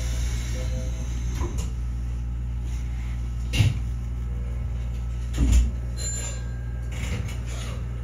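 Steady low rumble of a Nankai 8300 series electric train heard from inside the train, with two dull thumps, about three and a half and five and a half seconds in.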